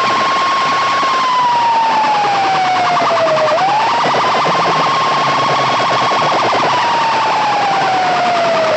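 A siren-style tone played loudly through a DJ sound-box system. It sweeps quickly up to a high pitch and then slowly falls, twice, over a fast pulsing buzz.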